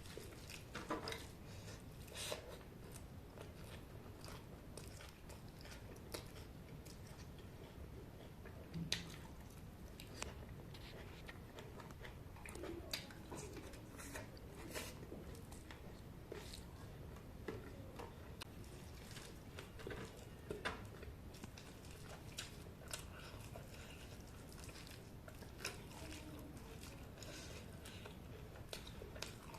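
A person eating chicken curry close to the microphone: chewing and biting with many small irregular mouth clicks and smacks.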